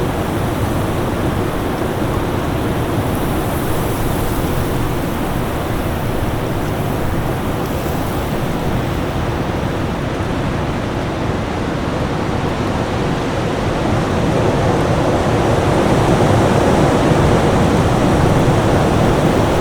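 Winter storm wind blowing as a steady, dense roar, with a faint steady hum underneath; it swells a little louder about two-thirds of the way through.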